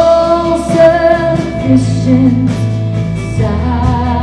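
Live worship band music with singing: sustained held notes over a steady bass line.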